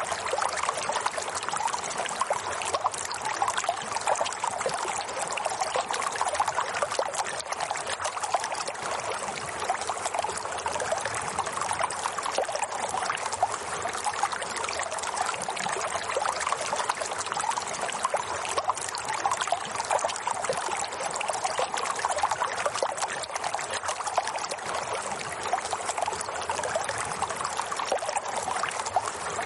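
Running water, a stream flowing and trickling steadily.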